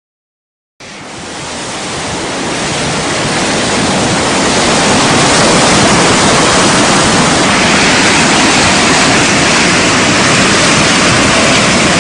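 Loud, steady rush of water. It starts abruptly about a second in and swells over the next few seconds to an even level.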